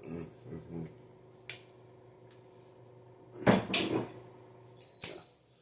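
Kitchen handling sounds: a small click, then a loud knock and rattle about three and a half seconds in, like a cupboard door or cookware being handled. Near the end an oven timer starts to beep, signalling the cooking time is up.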